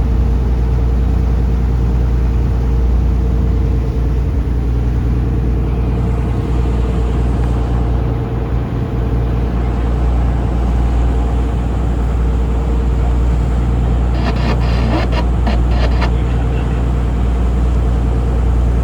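Taxi boat's engine running steadily at cruising speed, a deep constant drone with a steady hum above it, heard from on board.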